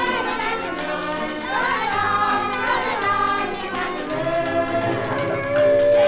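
Music from a 1930s 78 rpm shellac record: a tune played on a street organ with a group of voices singing along, ending on a long held note.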